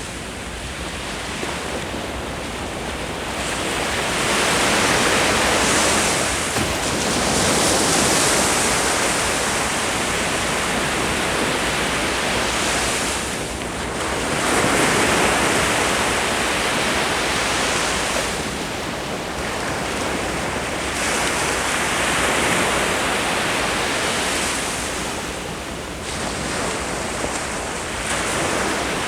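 Ocean waves breaking on a beach, the surf rising and falling in repeated surges every few seconds, with some wind on the microphone.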